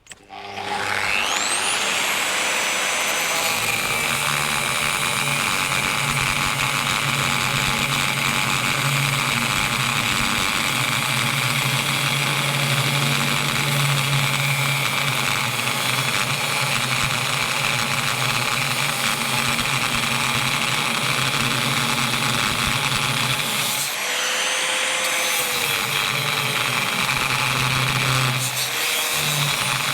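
Disc cutter (angle grinder) spinning up with a rising whine, then running steadily as it cuts through the steel leading edge of a skid steer bucket, steel the owner takes for soft mild steel. It eases off briefly twice near the end and picks back up.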